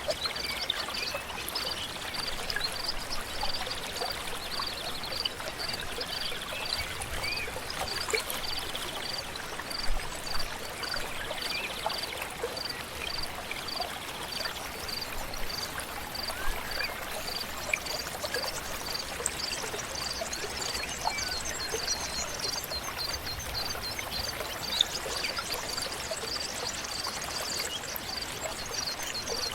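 Flowing stream, a steady rush of water. Over it, a high chirp repeats evenly a little under twice a second, with a few short bird trills in the first half.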